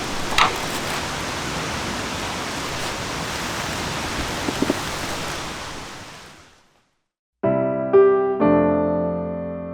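Steady outdoor rushing noise, like running water, with one short high chirp near the start; it fades out over about a second, and after a brief silence solo piano music begins.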